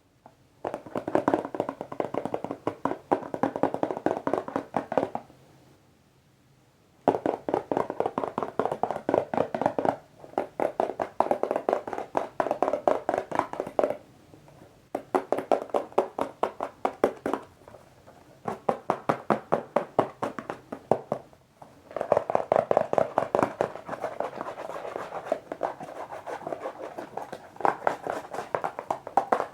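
Fingertips tapping rapidly on a box, many taps a second, in runs of a few seconds broken by short pauses.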